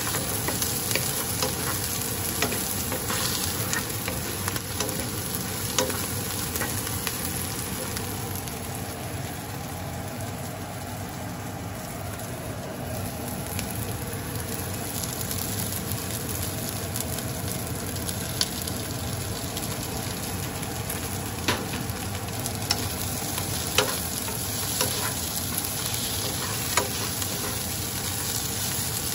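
Chopped onion and garlic sizzling in olive oil in a non-stick frying pan while a wooden spatula stirs them, with occasional sharp taps and scrapes of the spatula against the pan. The sizzle dips a little for a few seconds in the middle.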